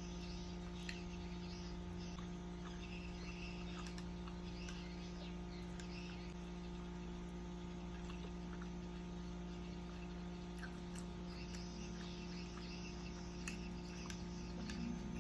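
Soft, scattered chewing and mouth clicks from eating chewy tteokbokki rice cakes, over a steady electrical hum.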